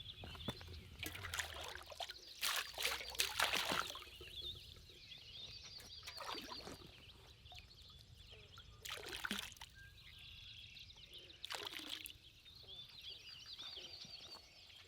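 Birds chirping and trilling steadily, with several short bursts of rustling and trickling, pouring water every few seconds.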